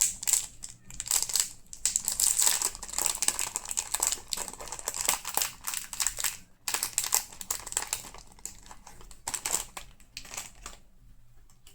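Rustling and crinkling from hands working yarn and crochet close to the microphone, in irregular bursts that stop near the end.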